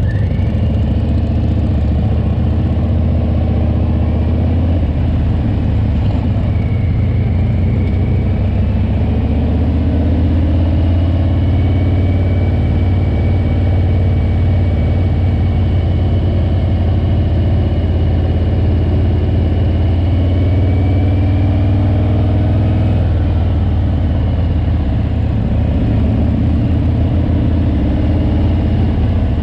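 Harley-Davidson Heritage Classic 114's Milwaukee-Eight V-twin engine running steadily while riding at road speed, a deep continuous rumble whose pitch drifts slightly up and down.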